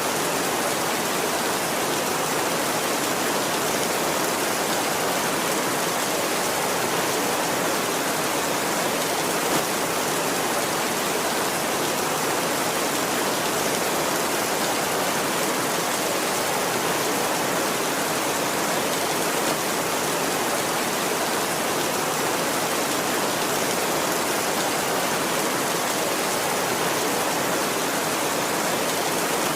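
Steady heavy rainfall, an even hiss with no thunder and no changes in level.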